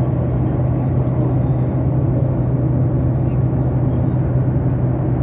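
Steady drone of an airliner's engines and airflow heard inside the passenger cabin, an even low hum with no change in level.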